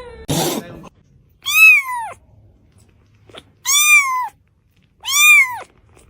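Cat meowing three times, each a loud call that rises and falls in pitch, after a short breathy burst under a second in.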